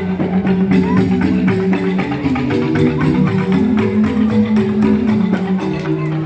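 Balinese joged bumbung bamboo gamelan playing: bamboo xylophones struck in a fast, busy stream of notes with percussion keeping the rhythm.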